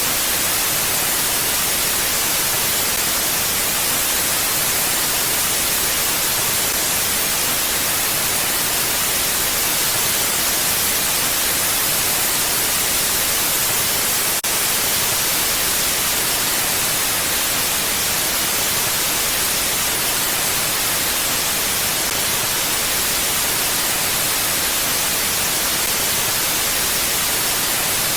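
Mountain wind blowing as a steady, even hiss with no gusts or lulls. A faint tick comes about halfway through.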